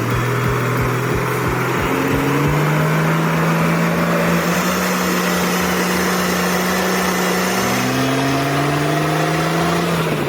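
Six-cylinder turbo diesel engine of a custom-built log truck running hard under load, its note climbing over the first few seconds, holding, then dropping about eight seconds in before rising again.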